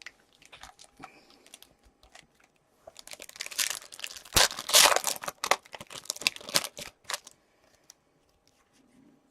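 A foil hockey-card pack being torn open and its wrapper crinkled: a few faint ticks, then about four seconds of dense tearing and crackling that peaks in the middle.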